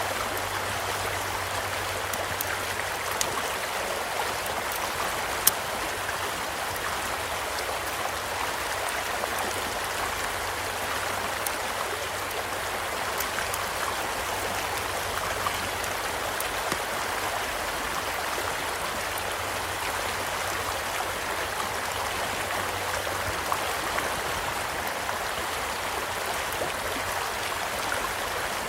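Small stream flowing steadily, with sharp crackles and pops from a campfire scattered over it; the loudest pop comes about five and a half seconds in.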